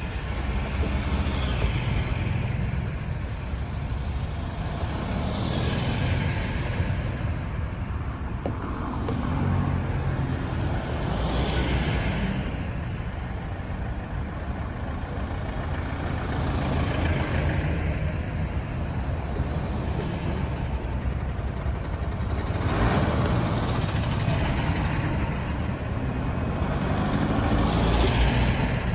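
Road traffic: a steady low rumble with about half a dozen vehicles passing, each swelling and then fading away.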